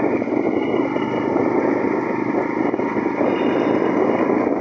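Small engine fitted to a bicycle, running steadily.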